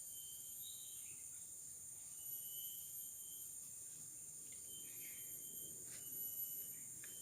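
Rainforest insect chorus: several steady, high-pitched shrilling trills overlapping, one of them pulsing on and off, with a lower chirping call coming and going. A few faint ticks sound in the second half.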